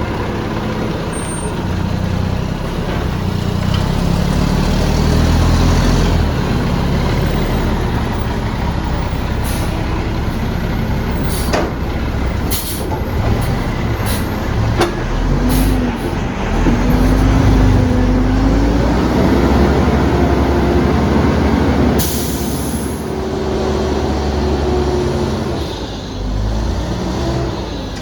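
Front-loader garbage truck's diesel engine running loud and revving, with a pitched whine that rises and falls through the middle. Several sharp bangs come about 10 to 15 seconds in, and a short air-brake hiss about 22 seconds in.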